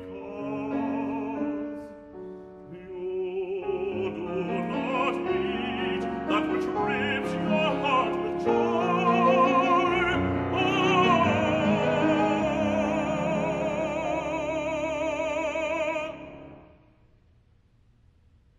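Closing bars of a classical art song: an operatic voice with wide vibrato over piano, building to a long held final note that ends together with the piano about sixteen seconds in, followed by near silence.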